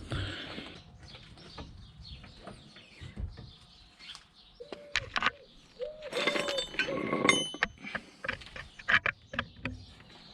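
Hand tools and steel brake parts clinking, tapping and scraping while the brake caliper support is cleaned, with a few short squeaks around the middle.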